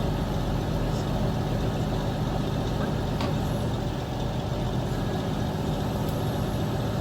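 Heavy truck engine running steadily at idle, a constant low drone with no change in pitch.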